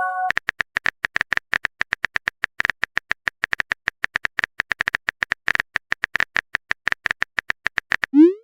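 Rapid clicking of a phone keyboard typing sound effect, about eight to ten clicks a second, after the tail of a short message chime at the start. The clicks stop shortly before the end.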